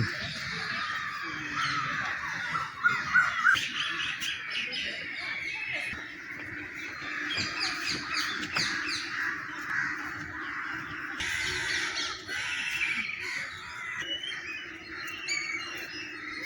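Crows cawing repeatedly amid many smaller birds chirping, with a faint steady low hum from about six seconds in.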